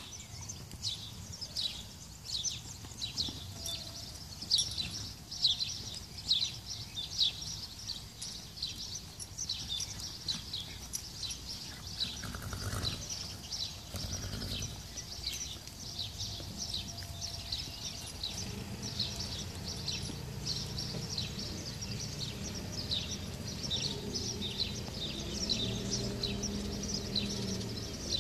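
Small birds chirping continuously, many quick calls overlapping, over a low outdoor rumble. A faint steady hum comes in about two-thirds of the way through.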